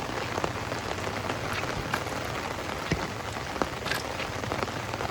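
Steady downpour of rain, with scattered sharper drops striking close by.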